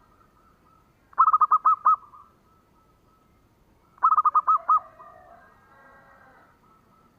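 Zebra dove (perkutut) cooing: two quick phrases of about six rhythmic, ringing coo notes each, a few seconds apart, with faint chattering after the second phrase.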